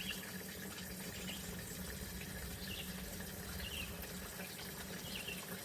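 Fuel being poured into an ATV's gas tank as a steady, gentle pour. Faint short chirps repeat in the background about once a second.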